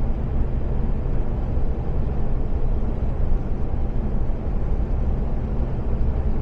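Steady cab noise of an Iveco Stralis 510 truck cruising at speed: the diesel engine's low hum under an even road and tyre noise, heard from inside the cab.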